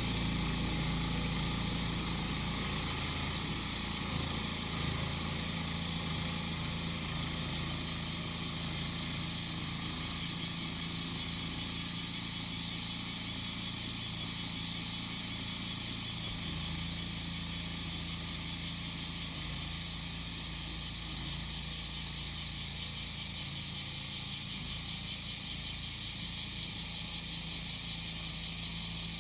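Small petrol engine of a grass-cutting machine running steadily, with a chorus of cicadas pulsing rhythmically in a high pitch over it, the pulsing becoming clear about a third of the way in.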